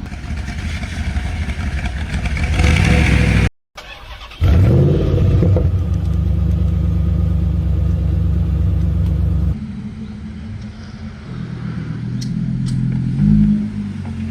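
Performance car engines and exhausts in three short clips. First a car grows louder as it accelerates. After a brief break an engine revs up and settles into a steady low running note. Then another engine revs up again near the end.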